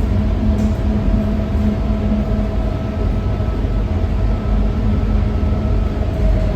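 Alstom Innovia APM 300R rubber-tyred people-mover car running along its guideway, heard from inside the car: a steady low rumble with a steady motor whine over it.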